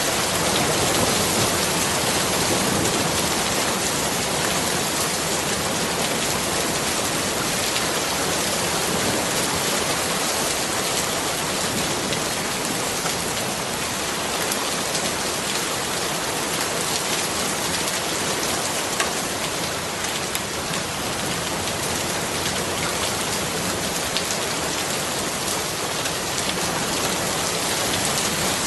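Steady rain falling, with a dense hiss of many drops hitting a surface.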